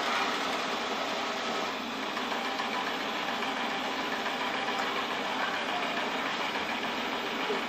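Xiaomi Mi Robot Vacuum Cleaner running with a steady mechanical whir that holds even throughout.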